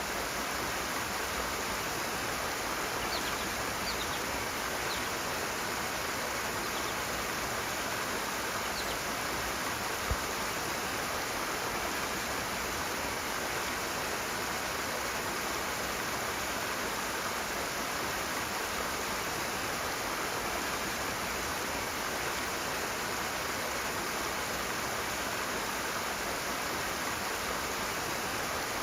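Rushing water: a steady, even rush. A few faint short high chirps come early, and there is a single soft knock about ten seconds in.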